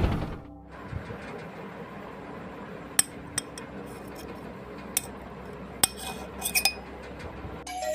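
A small motor stops in the first half second; then a handful of light, sharp clicks and clinks, like small hard parts being handled, spaced out over several seconds with a cluster near the end. Music comes in just before the end.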